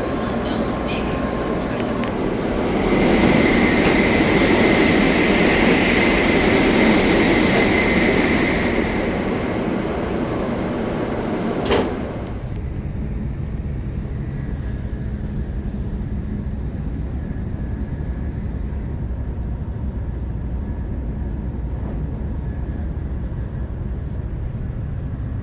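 Shinkansen train running at speed, heard from inside the carriage as a steady rumble. From about three to nine seconds in it grows louder with a rushing hiss and a thin high whine, and a single sharp click near twelve seconds in is followed by a quieter, duller rumble.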